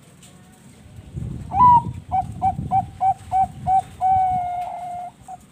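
Zebra dove (perkutut bangkok) cooing its song: an opening bent note, then a run of about seven quick, evenly spaced notes, then one long held note and a short closing note.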